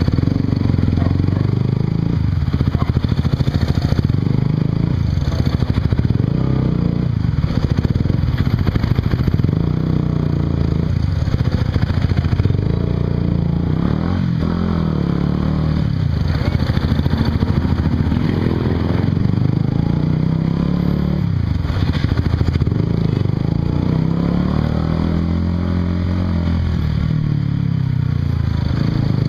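Honda CBR150R's single-cylinder engine running through a Yoshimura aftermarket exhaust while riding. Its pitch rises and falls again and again as the bike accelerates and eases off.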